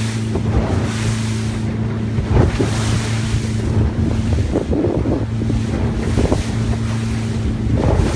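A boat's engine running with a steady low hum, under rushing water and wind buffeting the microphone, with irregular splashes.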